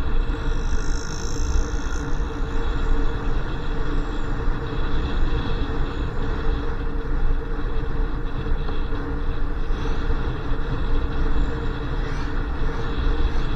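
Motorcycle being ridden: a steady engine hum under heavy rumble from wind on the microphone, with no change in pace.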